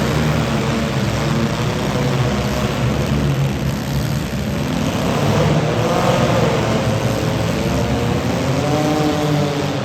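Several demolition derby cars' engines running at once, loud and steady, with their pitch rising and falling as they rev.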